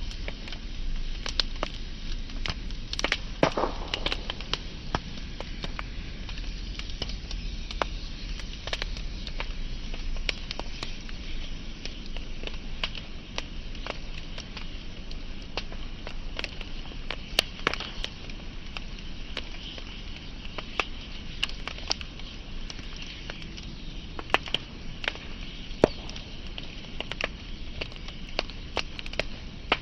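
Burning wood fire crackling: sharp, irregular pops and snaps over a steady hiss of flames.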